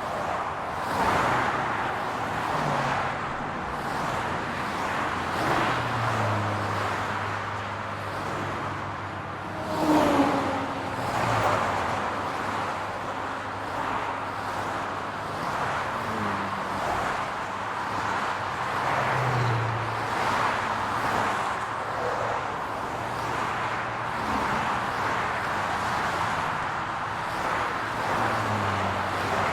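Road traffic: a steady hiss of tyres and a low engine hum, swelling and fading as cars pass one after another, with one louder pass about ten seconds in.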